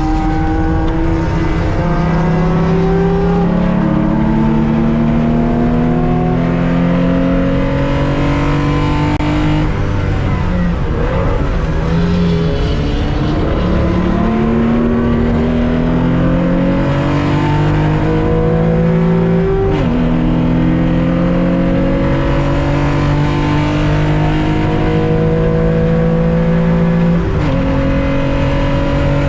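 Onboard sound of a 1965 Porsche 911's air-cooled 2.0-litre flat-six at racing speed, heard from inside the car. The engine note climbs in pitch under full throttle and drops sharply at each upshift, with two clear shifts near the end. Partway through, the note wavers and dips as the driver lifts off for a corner.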